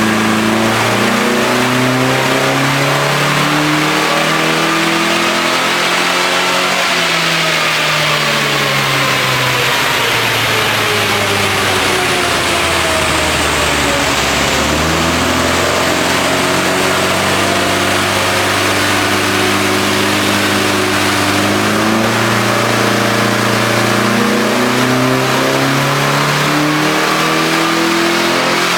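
Volkswagen club race car's engine running hard, its pitch climbing for the first several seconds, falling to its lowest about halfway through, then rising again and holding high.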